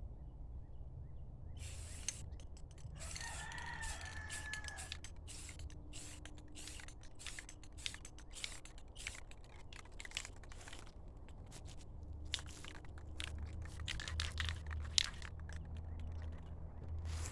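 A rooster crowing once, about three seconds in, over a steady low hum and scattered light clicks.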